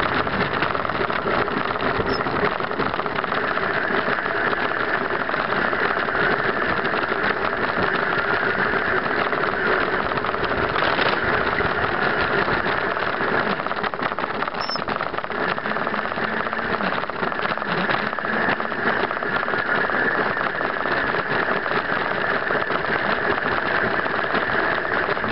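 Suzuki B-King motorcycle's inline-four engine running steadily while ridden at low speed, with no revving.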